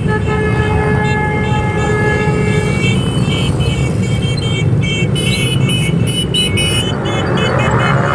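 Many motorcycles running together with a steady low engine rumble while horns sound: one held horn note for about three seconds, then a string of shorter, higher toots.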